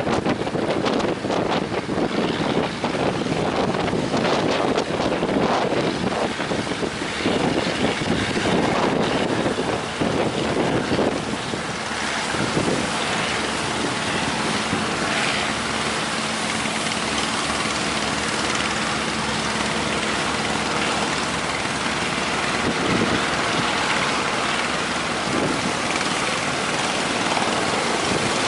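Strong wind buffeting the microphone, gusting hardest in the first half, with a boat engine running underneath and a faint steady hum from the engine in the middle stretch.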